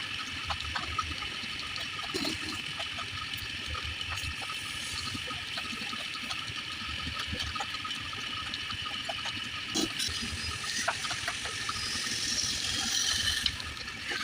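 Wood lathe running while a turning tool cuts the wooden bowl: a steady hissing rush with a faint steady whine and scattered small clicks.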